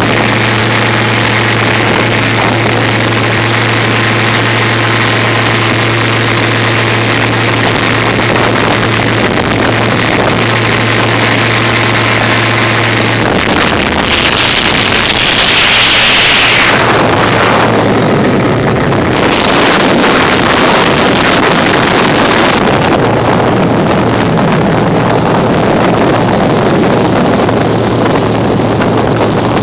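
MerCruiser 4.3-litre V6 boat engine running steadily. About 13 seconds in the throttle opens and the boat accelerates, with the engine and rushing air getting louder. It then runs at speed with wind buffeting the microphone.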